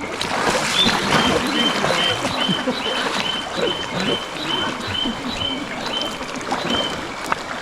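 An animal's short high call, repeated about two and a half times a second for some six seconds, over a steady hiss of running river water, with indistinct voices low beneath.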